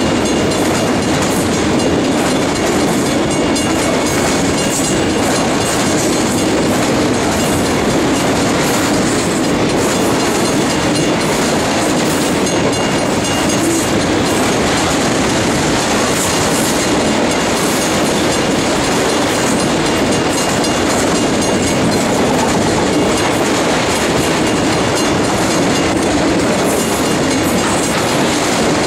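Loaded autorack freight cars rolling past, a steady loud rumble and rattle of steel wheels running on the rails.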